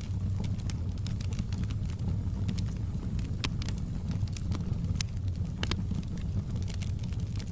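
Wood fire crackling in a fireplace: a steady low rumble of flames under scattered sharp pops and snaps, a few louder ones about halfway through.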